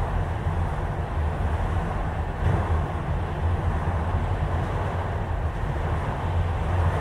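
Enclosed autorack freight cars rolling past at steady speed: a continuous low rumble of steel wheels on the rails.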